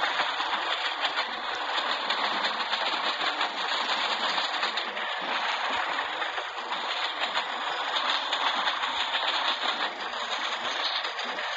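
Train running on the rails: a steady, dense rattling noise of wheels and coaches.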